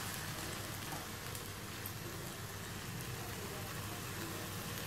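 Faint, steady sizzling and crackling of spiced okra (bhindi masala) in a hot frying pan as the heat is turned off, over a low hum.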